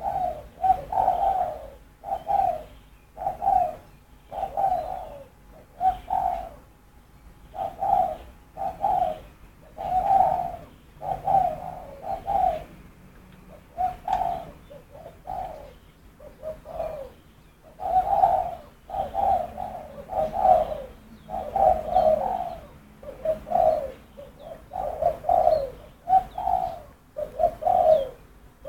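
A dove cooing: a long run of short coo notes, each falling slightly in pitch, often in twos and threes, with a brief thinner patch about halfway through.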